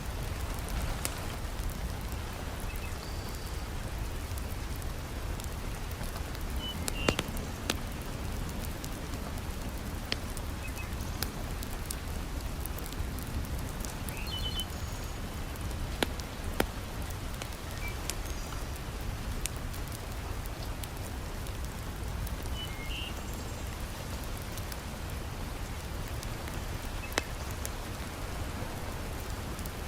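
Heavy rain falling steadily, with the crackle of a wood fire in a fireplace: scattered small clicks and a few sharp, louder pops.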